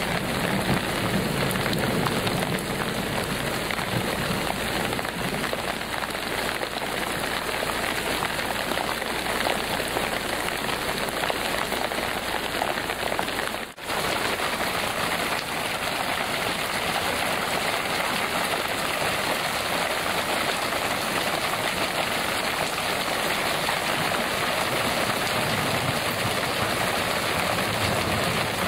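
Heavy downpour, a steady dense hiss of rain, that briefly cuts out about halfway through.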